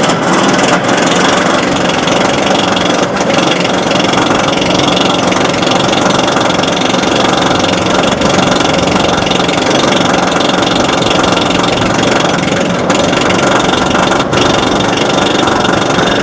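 Roller coaster ride noise: a loud, steady rumble and rattle of the train running on the track, with no break.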